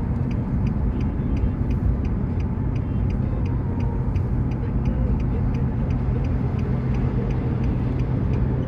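Car cabin noise while driving: steady engine and road rumble with a low hum, and a regular ticking about three to four times a second.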